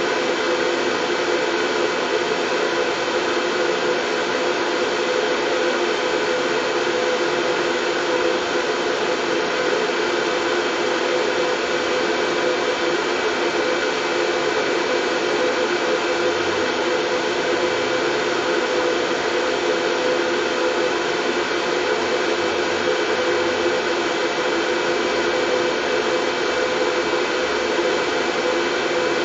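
Steady, unchanging white noise played for soothing a baby to sleep, strongest in the low-middle range with a faint steady whine higher up.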